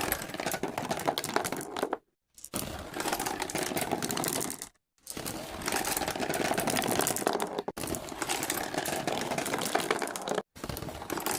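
Dense crackling and clattering noise made of many small rapid clicks, broken into segments by abrupt cuts to silence about two, five, eight and ten and a half seconds in.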